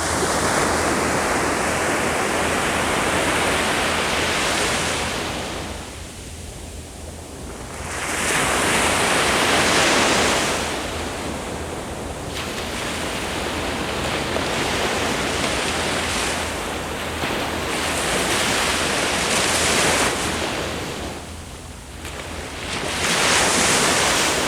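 Ocean waves breaking on the shore and washing back, the surf rising and falling in surges every few seconds.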